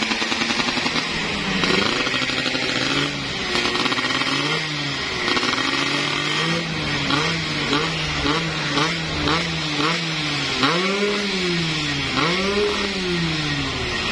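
Yamaha F1ZR's single-cylinder two-stroke engine, built up to 116 cc spec, running and being revved. In the middle comes a run of quick throttle blips, about two a second, then two longer revs that rise and fall.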